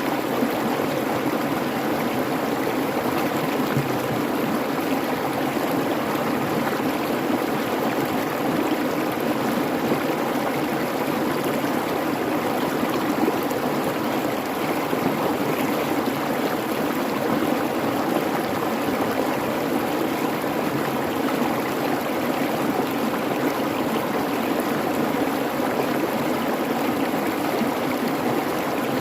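Creek babbling over stones: a steady, unbroken rush of running water.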